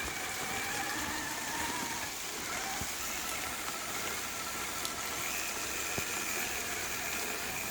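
Electric motor and gear whine of an Axial RC rock crawler driving slowly over the trail, its pitch drifting up and down with the throttle, over a steady hiss of rain.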